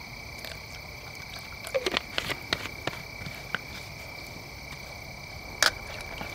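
A steady, high insect chorus, like crickets or katydids, drones in the background. A scattered series of short clicks and knocks from cooking gear falls around two seconds in, and one sharper knock comes near the end.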